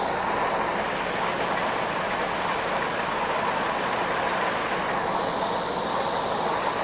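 Steady machine noise of grain-handling equipment running while soybeans are unloaded from a wagon into a bin, with a continuous high hiss that is strongest in the middle.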